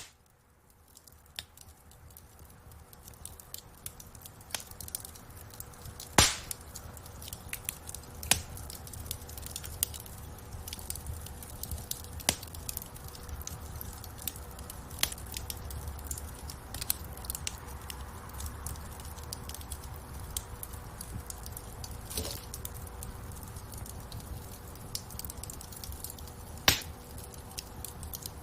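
Wood fire burning in a fireplace: logs crackling with scattered sharp pops over a low, steady rumble of flames. It fades in over the first few seconds, with two louder pops about six seconds in and near the end.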